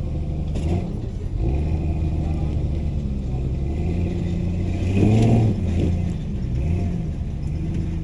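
Off-road vehicle engine running under changing throttle, its pitch rising and falling, with a sharper rev about five seconds in.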